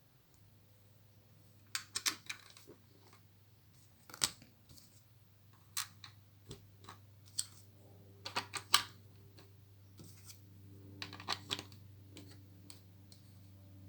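Plastic Lego pieces clicking and clattering as they are handled and pressed together, in scattered single clicks and quick clusters, over a low steady hum.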